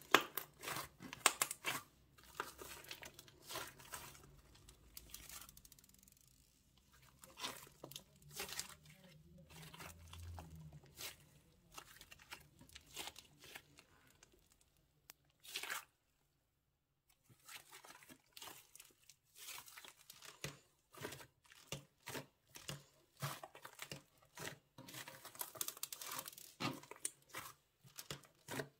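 Plastic bags crinkling and tearing in quick, irregular rustles, broken by a brief silence about halfway through.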